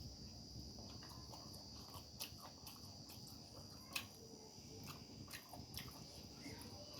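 Faint chewing and biting sounds of a person eating by hand, scattered wet mouth clicks with a sharper crack about four seconds in, over a steady high-pitched whine.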